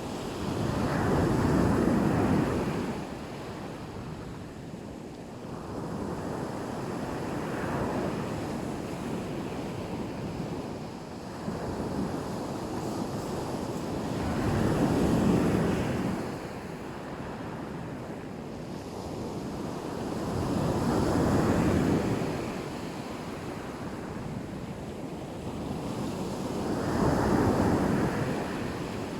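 Black Sea waves breaking on the shore, the surf swelling and ebbing in repeated surges: four strong ones about six seconds apart, with a weaker one between the first two.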